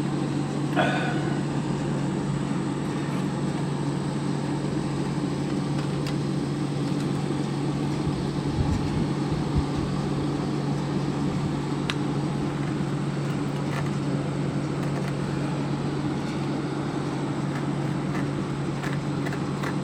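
Steady low mechanical hum, with a faint click about twelve seconds in.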